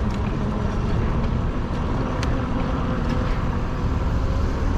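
Steady rush of wind on the microphone and tyre noise from a fat-tire e-bike being ridden, with a faint steady hum and a few light clicks, the sharpest about two seconds in.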